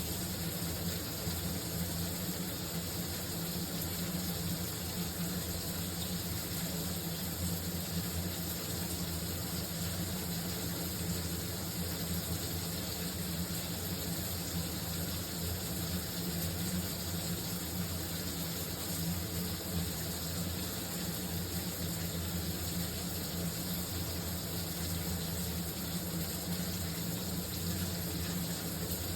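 A shower spraying water in a steady, unbroken rush.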